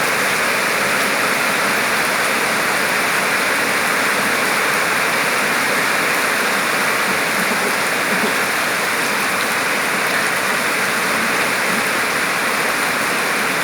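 Heavy rain falling steadily, a constant rushing hiss of water.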